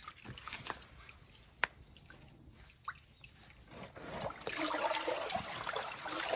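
Water dripping with scattered small splashes, then from about four seconds in a continuous sloshing and splashing of water.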